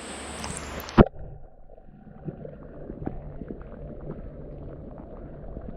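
A person plunging into cold creek water: a sharp splash about a second in, then muffled underwater bubbling with many small ticks.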